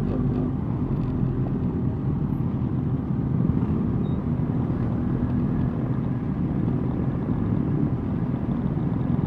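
Suzuki GSX-R 1000 inline-four engine running steadily while riding, an even low rumble with no revving.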